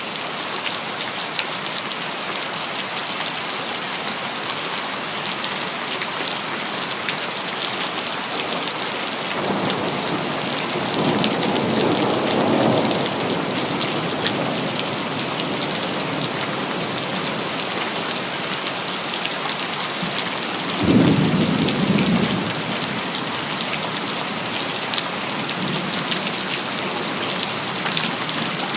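Steady rain with two rolls of thunder. A low rumble rises from about nine seconds in and peaks a few seconds later. A sharper clap comes about two-thirds of the way through and fades after a second or two.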